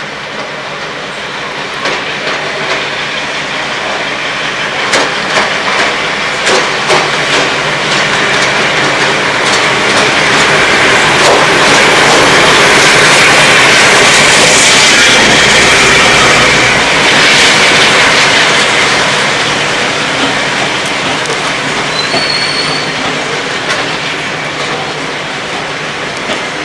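Train running on the rails, its wheels clicking over rail joints with a steady wheel squeal over the rumble; it grows louder to a peak about halfway through, then fades.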